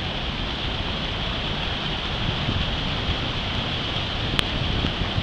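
Large waterfall close by: a steady, dense rush of falling water, with a short click about four seconds in.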